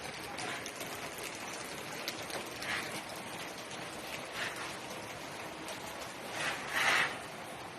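Steady rain falling, with a few brief louder splashes of noise, the loudest about seven seconds in.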